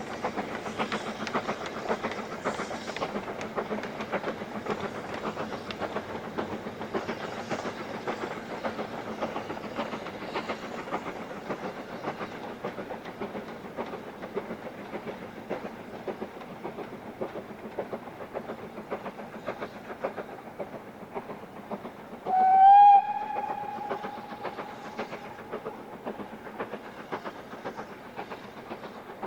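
Steam train running, a dense rapid beat of exhaust and wheels that slowly fades. About 22 seconds in, the steam whistle sounds: a loud blast that settles into a quieter held note lasting a few seconds.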